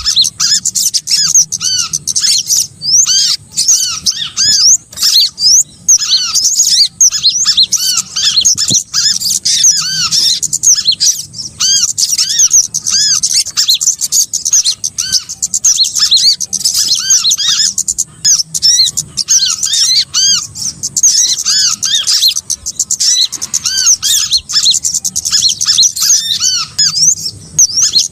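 Bird-lure recording of many small songbirds calling at once: a loud, dense chorus of short, high chirps that rise and fall, overlapping without a break.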